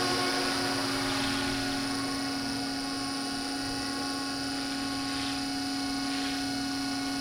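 Electric scale RC helicopter hovering at flight RPM: a steady rotor hum with one strong low tone under the motor's high, even whine.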